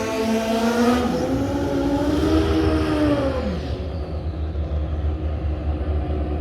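Pro Street drag motorcycle engines at the end of a quarter-mile pass, their pitch falling off over a couple of seconds as the bikes slow, leaving a low steady rumble.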